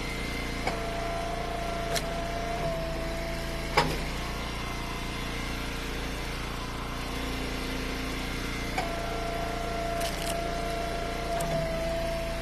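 Engine of an Eastonmade Ultra hydraulic wood splitter running steadily. Twice a high whine holds for about three seconds as the splitter works, with a few sharp knocks, the loudest about four seconds in.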